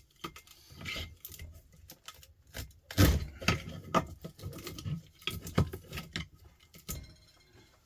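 Irregular metal knocks and clatter of a chisel and hand tools working the copper winding out of a small electric motor held in a vise, the loudest knock about three seconds in.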